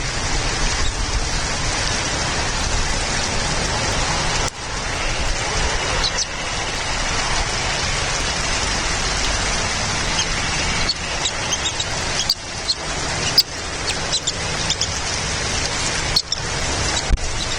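Steady rain-like rushing noise on an outdoor nest microphone, with several brief high chirps, mostly in the second half. The sound cuts out for an instant several times.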